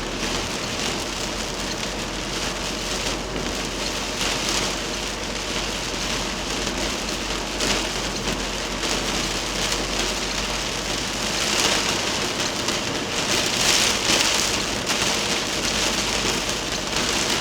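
Heavy rain falling hard, a dense steady hiss that swells louder for a few seconds past the middle.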